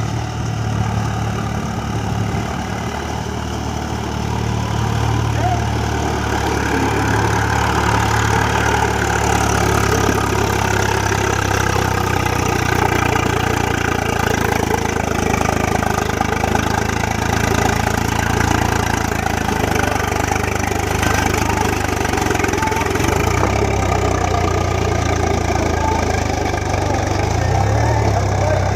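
Swaraj tractor's diesel engine running steadily with a low, even drone.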